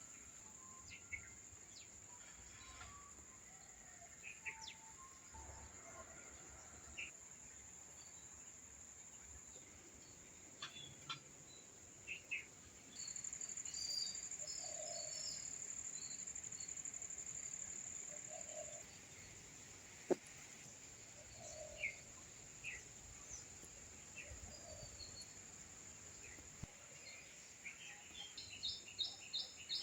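Outdoor insect and bird chorus: a steady high-pitched insect drone throughout, swelling into a louder rapid pulsing trill from about halfway in for several seconds. Scattered short bird chirps and a few lower calls come through over it.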